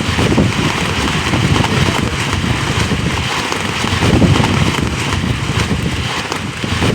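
Strong gusty wind buffeting the microphone: a heavy, uneven rumble that swells and drops with each gust, over a steady rushing hiss.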